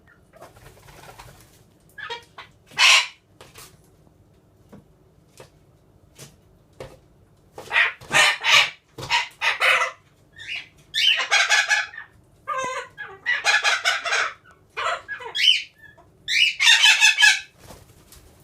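Chickens calling in a flock, a string of loud short clucks and squawks that come thick and fast from about seven seconds in, with a few longer calls.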